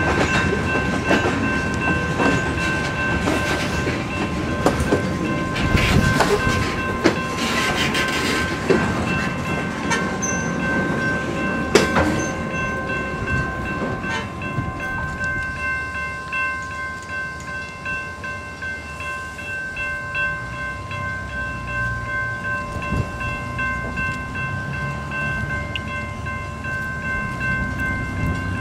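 Huron & Eastern freight cars rolling past over a grade crossing, wheels knocking and clicking over the rail joints, louder in the first half and easing later. A steady ringing, most likely the crossing's warning bell, sounds throughout.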